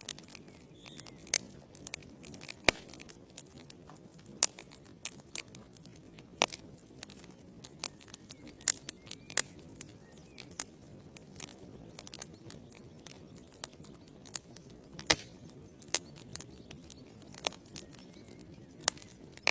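Wood fire burning in a fireplace: irregular sharp crackles and pops from the logs over a low steady hiss of the flames.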